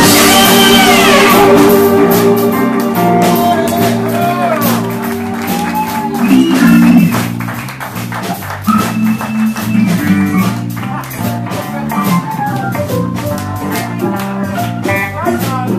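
Live rock band playing an instrumental break: the horn section's held chord dies away about a second and a half in, then an electric guitar plays bending lead lines over bass and drums.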